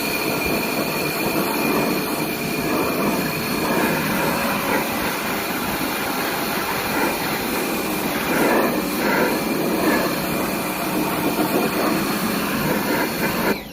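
Electric pressure washer running: a steady motor whine over the hiss of the water spray, stopping abruptly near the end.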